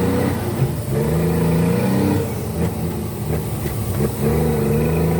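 Scania truck's diesel engine pulling under load, its note rising as it accelerates, dropping about two seconds in as a gear is changed, then rising again near the end.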